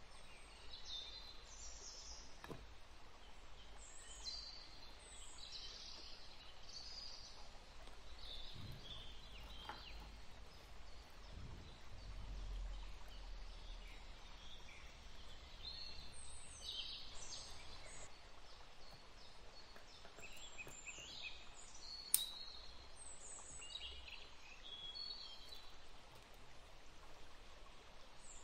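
Birds chirping and singing over a faint steady background hiss, in short high calls scattered throughout; one sharp click stands out about two thirds of the way through.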